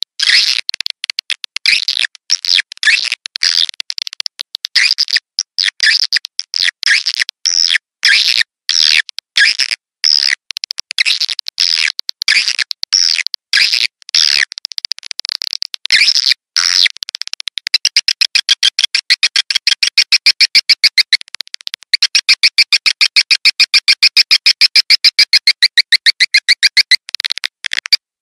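Swiftlet lure call (edible-nest swiftlet chirps, as played to draw the birds to a swiftlet house): a dense run of chattering chirps and clicks. About two-thirds of the way in, it changes to a fast, even train of high twittering chirps, about ten a second.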